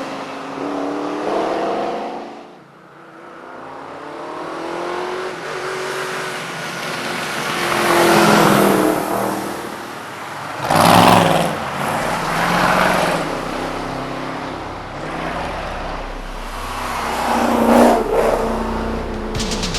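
V8 race car engine at full throttle on a hillclimb, its pitch climbing and dropping through gear changes as the car passes, loudest about eight, eleven and eighteen seconds in.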